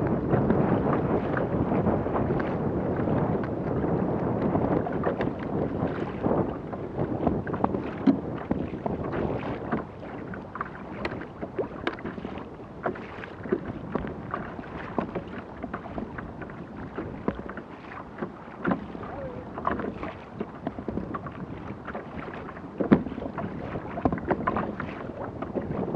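Lake water lapping and slapping against a kayak hull, with wind buffeting the microphone, louder for about the first ten seconds. Scattered small splashes and knocks run throughout.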